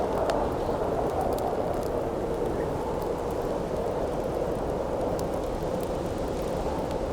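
Steady howling wind as a continuous rushing noise, with a few faint crackles from a campfire scattered through it.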